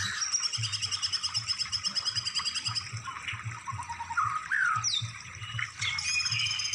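Songbird song from a bird-tutoring (masteran) recording: fast, high trilled phrases, with short whistled glides in the middle.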